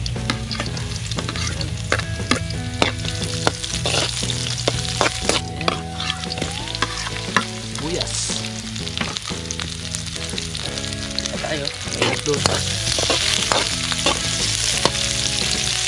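Garlic, chili and ginger sautéing in hot oil in a pan, sizzling steadily while a utensil stirs them, with frequent sharp clicks of the utensil against the pan.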